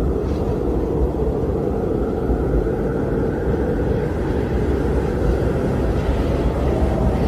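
A steady low rumbling noise, even throughout, with no distinct events.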